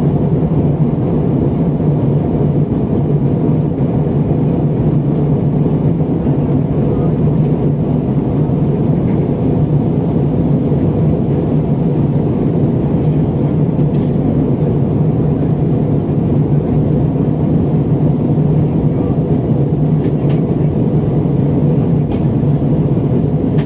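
Steady engine and rushing-air noise inside the cabin of an Airbus A320 airliner on its approach to landing, with a constant low hum under it.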